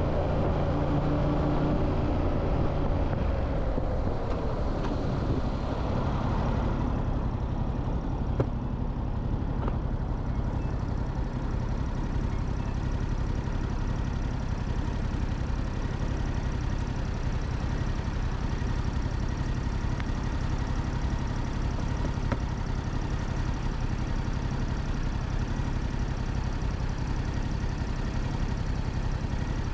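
Motorcycle engine dropping in pitch as the bike slows over the first several seconds, the rush of wind fading out about seven seconds in, then the engine idling steadily.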